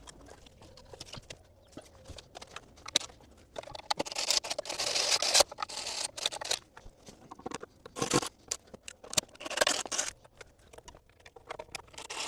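Scraping and crunching of stripped screws being worked out of an old wooden door frame, in irregular bursts, the longest about four seconds in and shorter ones around eight and nine and a half seconds.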